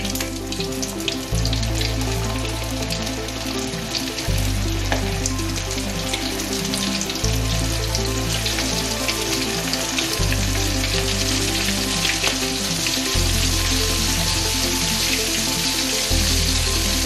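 Flour-coated squid pieces deep-frying in hot oil, a dense, steady sizzle and crackle as more pieces are dropped in. Background music with a low bass line that changes note every few seconds plays underneath.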